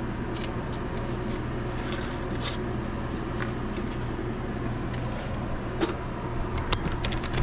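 Steady low hum of kitchen cooking equipment under a light even hiss, with a few scattered light clicks and clinks of cookware being moved.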